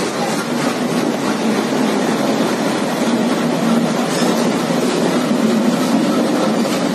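Train running past on the nearby track: a steady noise of coach wheels on the rails.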